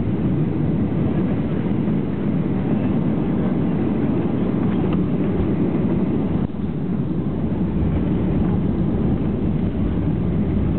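Boeing 737-800 airliner noise heard from inside the aircraft: a steady, loud low rumble of engines and airflow, with a brief dip about six and a half seconds in.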